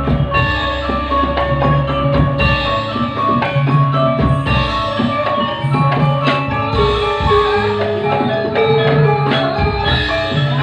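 Campursari music: a Javanese ensemble with struck metal gamelan-style mallet instruments and drums over a steady bass line, playing without a break.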